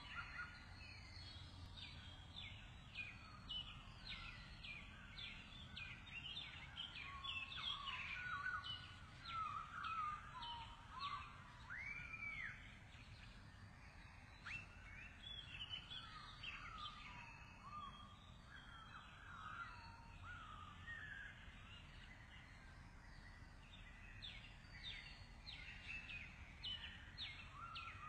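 Small birds chirping: a dense stream of short, high chirps with a few rising-and-falling calls, over faint low background noise.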